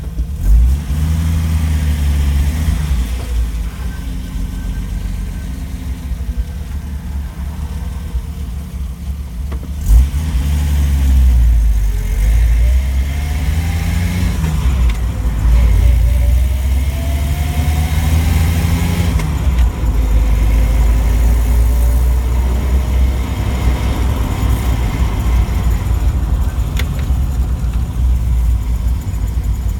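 1993 Jeep Wrangler YJ with its AX-15 manual gearbox being driven: the engine runs under load over a steady low rumble, its pitch rising and dropping several times as it revs up and shifts through the gears.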